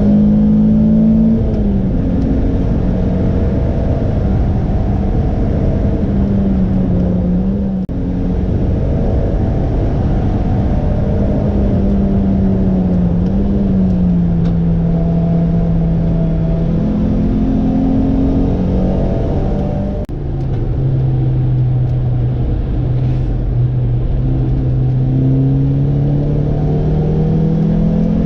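Lotus sports car engine running hard on a circuit lap. Its pitch holds, drops in steps and climbs again as the car goes through the gears and corners, with two brief dips where the power is cut, about eight and twenty seconds in.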